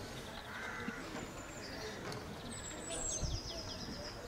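Songbirds chirping and singing, with a run of quick repeated high notes lasting about a second from halfway through. There is a short low thump about three seconds in.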